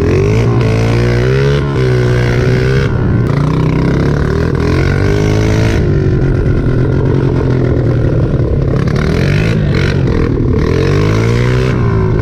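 Dirt bike engine running under load, its pitch rising and falling several times as the throttle is opened and closed.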